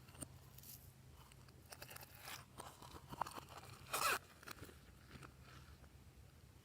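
Hands working glossy slime with mixed-in bits: scattered soft crackles and sticky clicks, with one louder crunchy squelch about four seconds in.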